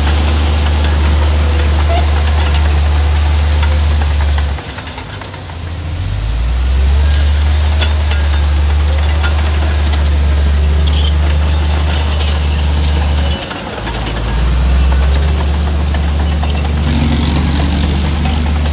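Heavy diesel engine of earthmoving machinery running loudly under load. Twice the engine note drops for a moment and then picks back up.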